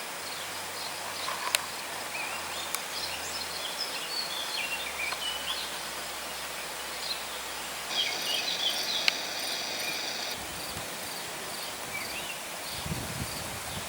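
Outdoor ambience: a steady hiss with many short bird chirps. An insect-like buzz comes in about eight seconds in and stops about two seconds later, with a few sharp clicks scattered through.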